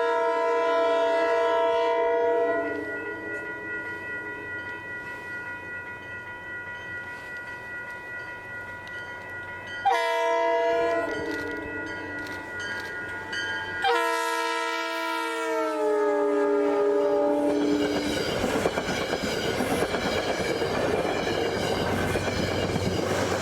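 Metro-North GE P32AC-DM locomotive's air horn sounding three chords as it approaches, the third one falling in pitch as it passes. The train then rushes by with wheels clacking over the rail joints.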